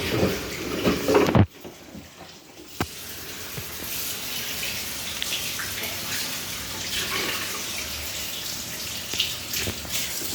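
Water rushing inside a Whirlpool washing machine during its cycle. The flow cuts off abruptly about a second and a half in, a single click follows, and then water runs again steadily, a little quieter.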